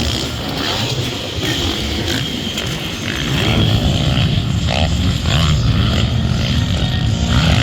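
Motocross bike engines revving and running on the track, growing louder about three seconds in.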